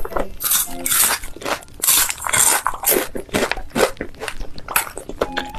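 Close-up crunching as a person bites and chews crisp food: a quick, irregular string of crunches.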